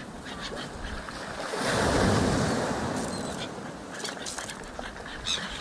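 Sea waves breaking on a stony shore: one wave surges up to its loudest about two seconds in and then washes back, with scattered small clicks near the end.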